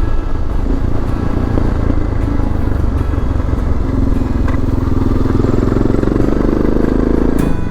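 Suzuki DR650 single-cylinder four-stroke motorcycle engine running, its note rising a little from about halfway through, then cut off abruptly near the end.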